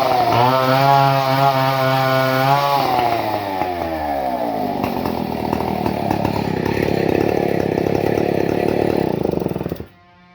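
Two-stroke chainsaw engine held at high revs, then easing off, with the pitch falling over a couple of seconds to a rougher, lower running. About a second before the end the sound cuts off suddenly.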